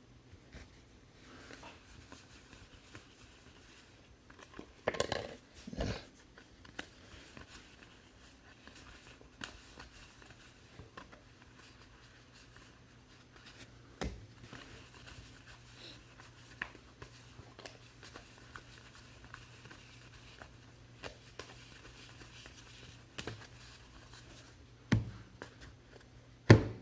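Trading card packs being opened and cards handled on a table: wrapper tearing and crinkling, cards sliding and clicking, with a few louder knocks. A faint steady hum underneath.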